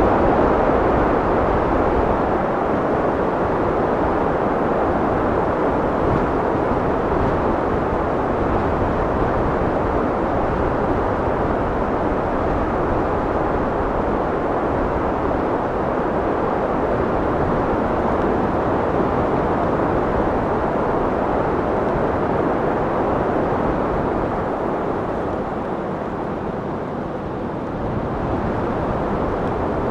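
Steady rushing wind with no gusts or distinct events. It eases a little near the end, then picks up again.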